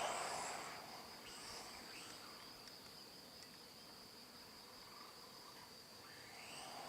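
An electric RC car's motor fading away as it drives off, then near quiet with a steady high-pitched tone, and the motor getting louder again near the end as a car approaches.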